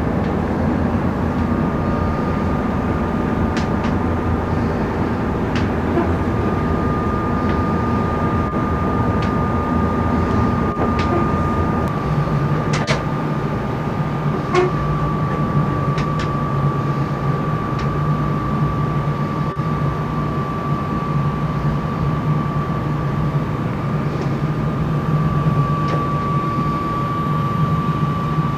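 Yacht's inboard engine running steadily under way, with a steady whine over a low hum; the hum drops in pitch about twelve seconds in, and a few light clicks sound now and then.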